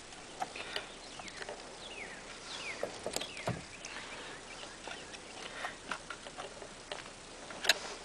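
Scattered light clicks and knocks of a chainsaw's bar and chain being handled during a chain adjustment, with a sharper click near the end. A few quick falling chirps of birds come in the middle.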